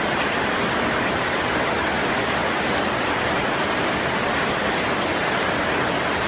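Monsoon rain falling steadily on trees and foliage, an even hiss with no breaks.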